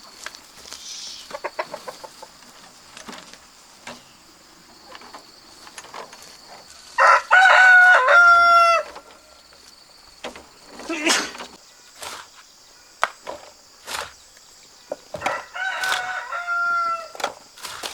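A rooster crows twice: a long, loud crow about seven seconds in and a second, quieter crow near the end. Scattered sharp knocks sound between the crows.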